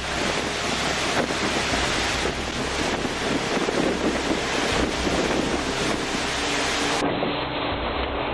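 Strong storm wind blasting the microphone: a loud, steady rushing noise with gusty swells. About seven seconds in, the sound changes abruptly to a duller version of the same rush.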